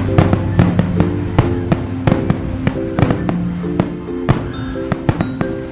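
Fireworks going off in a rapid, irregular run of sharp bangs and crackles, over music with steady melodic notes.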